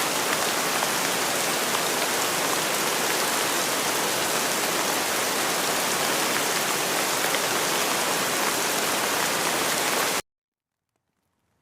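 Steady rain falling, a dense even hiss flecked with small drop taps. It cuts off suddenly near the end, leaving silence.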